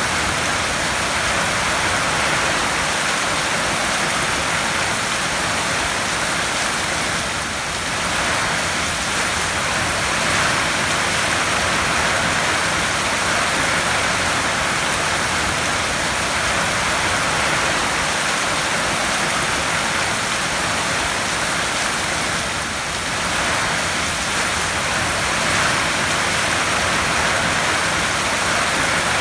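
Heavy rain falling on a tin roof: a dense, steady hiss that eases slightly twice.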